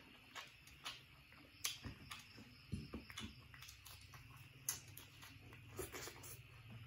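Close-miked chewing and mouth sounds of a person eating with his fingers: irregular, short, sharp clicks and crunches a second or so apart.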